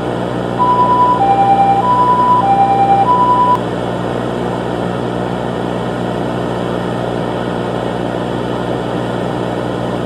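Two-tone hi-lo emergency siren alternating between a higher and a lower pitch, five notes over about three seconds, starting about half a second in and then stopping. Under it runs a steady noisy hum.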